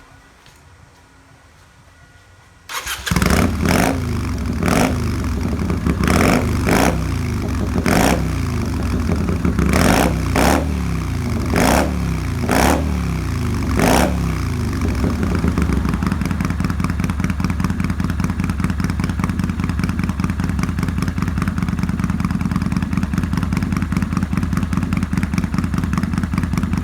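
Kawasaki Vulcan 400's V-twin engine starting about three seconds in, then revved in about ten short throttle blips before settling into a steady idle.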